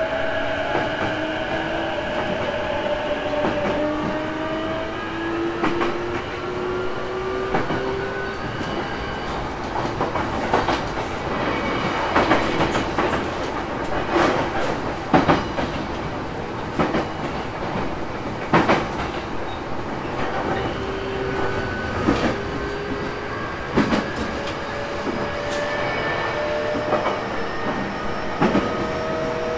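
E233-series electric train heard from inside a motor car while running. Its traction motors give a whine that rises in pitch over the first several seconds. Then a long run of sharp clicks from the wheels crossing rail joints follows, and a rising motor whine comes back over the last several seconds.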